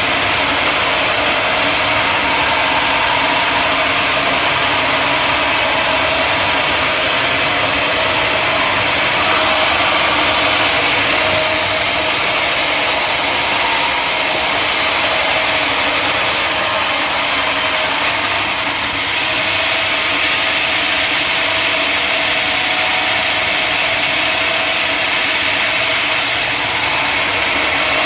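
Sawmill machinery running steadily: an engine-driven saw setup giving a constant, loud mechanical din with no breaks or changes.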